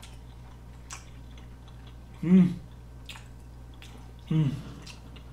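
A man chewing a mouthful of tuna-belly sushi, with a few small mouth clicks, and twice giving a short closed-mouth hum, "mm", as he savours it.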